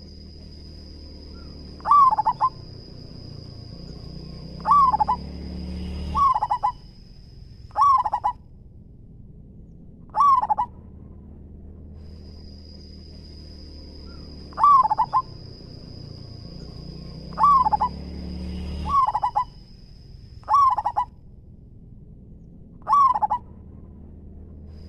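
Zebra dove cooing: about nine short, rolling coo phrases a few seconds apart, each ending in a quick stutter. A steady high-pitched whine runs behind them, dropping out twice for a few seconds.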